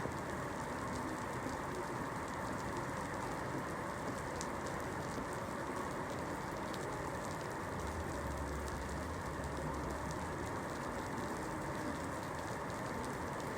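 Steady rain falling, an even dense patter with now and then a sharper single drop. A brief low rumble comes about eight seconds in.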